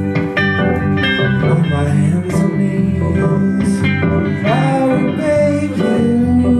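Live band music led by guitar over shifting bass notes, with a bent, sliding note about four and a half seconds in.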